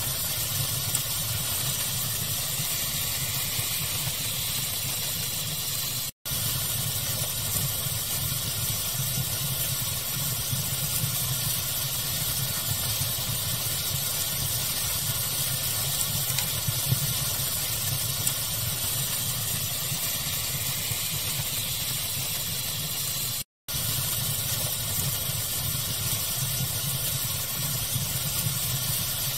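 Steady hissing fire ambience, a noise-like crackle bed with occasional small pops. It cuts out to silence twice for a split second, about six seconds in and again near the end, as the recording loops.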